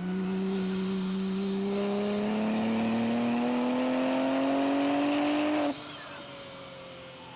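BMW M2's twin-turbo inline-six (S58) under full throttle, with a Valvetronic midpipe and open exhaust valves, its pitch rising steadily as it pulls through a gear, then cutting back sharply about two-thirds of the way through as the driver lifts off. Heard through microphones at the exhaust and at the intake.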